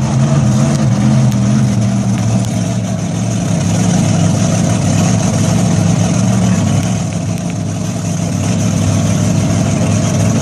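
Monster truck engine running loudly and steadily, its pitch wavering a little.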